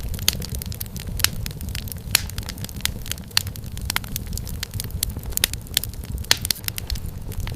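Wood fire in a fireplace crackling: a steady low rumble of the flames with frequent irregular sharp pops and snaps of burning firewood, a few louder than the rest.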